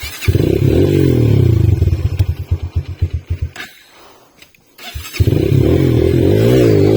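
Rusi motorcycle engine starting and running for about three seconds, then sputtering into separate firing pulses and dying. After about a second and a half it starts again and keeps running, its speed rising and falling.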